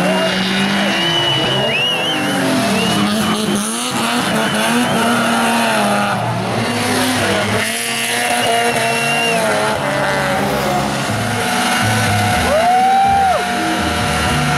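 Hill-climb race car at full throttle, its engine revving up and falling back repeatedly through gear changes, with tyre squeal in the first half.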